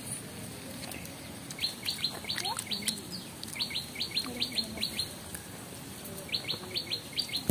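A bird calling in three quick runs of sharp, high notes. Each note sweeps downward, about five to a second, and each run lasts a second or so, the last one near the end.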